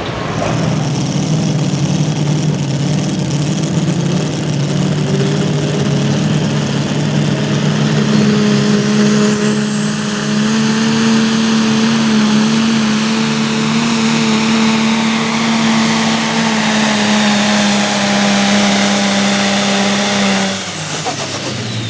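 Pro Stock pulling tractor's turbocharged diesel engine running at full throttle through a pull, its pitch climbing a little over the first several seconds, then holding steady and high. About twenty seconds in it drops off sharply as the throttle comes off at the end of the run.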